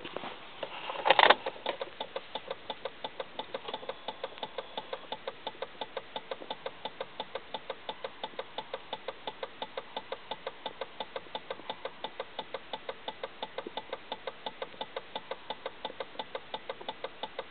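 Volvo S70 2.5 TDI five-cylinder turbodiesel being cranked by its starter on a cold start at −18 °C: a clunk as the starter engages about a second in, then a steady starter whine with even compression pulses about four to five a second as the frozen engine turns over slowly without firing.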